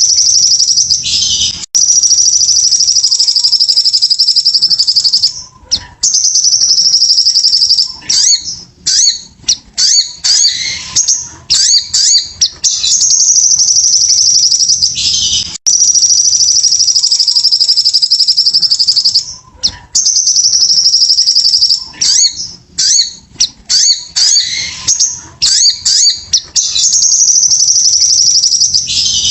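Little spiderhunter (sogok ontong) singing loudly. Its song is long, very fast, high trills lasting several seconds each, alternating with bursts of short, sharp chips.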